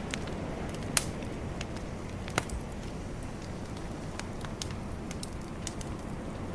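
Bonfire crackling, with scattered sharp pops, the loudest about one second in and another near two and a half seconds, over a steady low wash of calm ocean waves.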